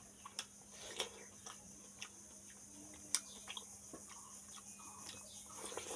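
Close-miked chewing of a bite of watermelon: irregular wet crunches and mouth clicks, with a sharper click about halfway through.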